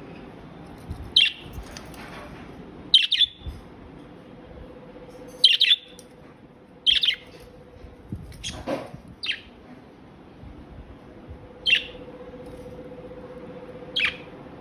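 Budgies chirping: about eight short, sharp, high-pitched calls, spaced one to three seconds apart.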